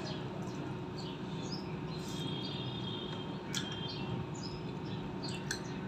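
Small birds chirping again and again in the background, some notes briefly held, over a steady low hum. A single sharp click comes about three and a half seconds in.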